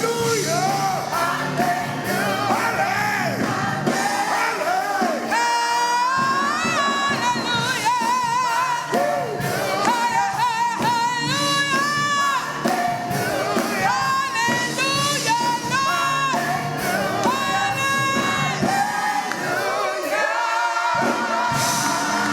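Live church worship music: a singer with strong vibrato and sliding, drawn-out notes over band accompaniment, with no clear words.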